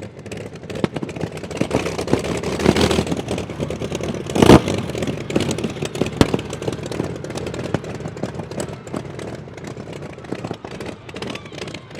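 The 27-litre V12 engine of the land speed record car Babs running with a crackling, uneven exhaust. It swells, gives one sharp loud bang about four and a half seconds in, then eases off.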